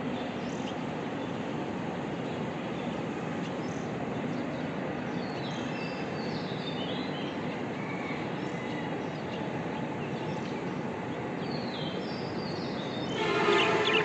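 Budgerigars chirping: scattered short, high, downward-slurring chirps over a steady background noise. Near the end comes a louder, harsher call lasting under a second.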